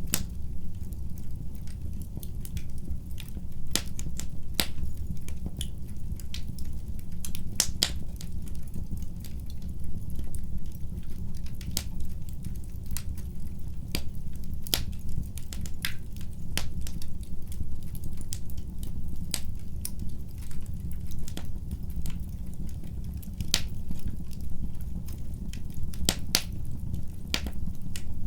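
Fireplace fire crackling: many sharp, irregular pops and snaps over a steady low rumble.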